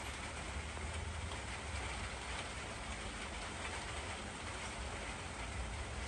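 Steady hissing noise with a low rumble underneath, with no distinct events.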